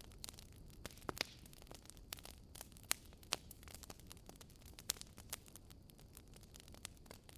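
Wood fire crackling: irregular sharp pops and snaps, a few louder than the rest, over a low steady rumble of the flames.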